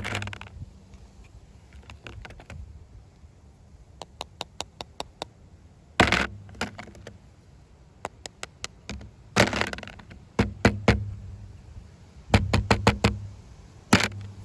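A series of hard knocks and thuds, with runs of quick light clicks, about four or five a second, in between; the loudest knocks come at the start, about six seconds in, and near the end.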